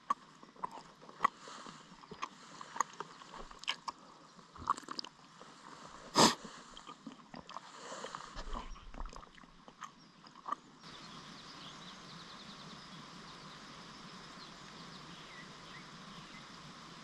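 Scattered sharp clicks and knocks, one much louder knock about six seconds in, then from about eleven seconds in an abrupt switch to a steady, even hiss.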